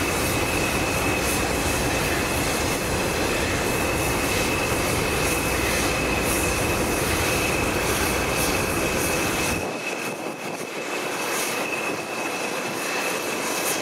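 Slow-moving train with B1 steam locomotive 61306 'Mayflower' and diesel locomotives passing, with a steady high-pitched wheel squeal over a steady rumble and rushing noise. The low rumble drops away about ten seconds in.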